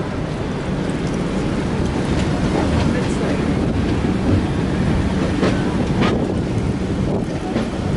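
Steady rumble of a moving passenger train, with a few faint clicks and knocks from the running gear.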